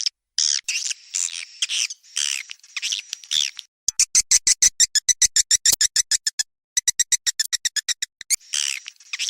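Swiftlet calling-sound recording: the high, twittering chirps of edible-nest swiftlets, each sweeping downward, then rapid trains of sharp clicks at about ten a second, broken by a short pause, with chirping again near the end.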